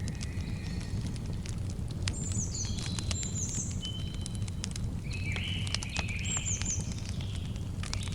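Campfire crackling with frequent sharp pops over a steady low rumble, while birds call in short runs of quick falling chirps about two, three and six and a half seconds in.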